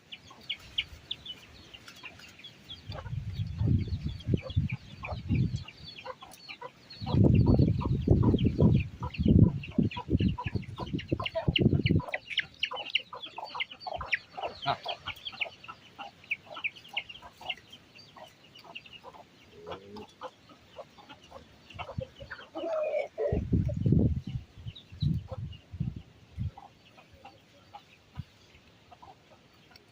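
Domestic chickens clucking, with a dense run of short high chirps through the middle. Three spells of loud, low rumbling noise are the loudest parts, near the start, about 7 to 12 seconds in, and again near the end.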